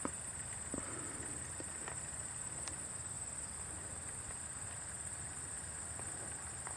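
Steady, high-pitched insect drone over a low background hum, with a few faint clicks.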